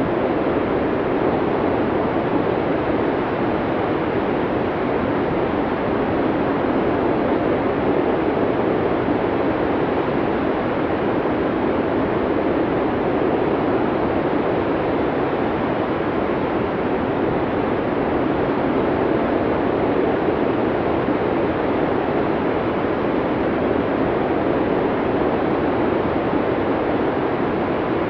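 Snowstorm wind blowing steadily: an even, deep rushing noise with no gusts or breaks.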